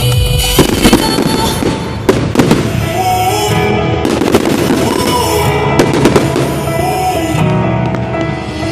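Fireworks banging and crackling in quick succession over loud pop music from the display's sound system.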